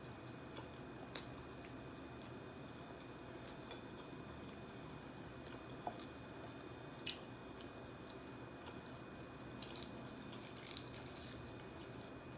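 Eating sounds: a person chewing fried chicken, with soft wet mouth clicks over a faint steady hum, and a few sharp clicks and crackles from the chicken being pulled apart by hand, the strongest about six and seven seconds in and a small cluster near the end.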